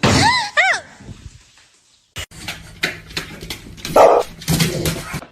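Two short, high animal yelps, each rising then falling in pitch, in the first second. Later come scattered clicks and knocks.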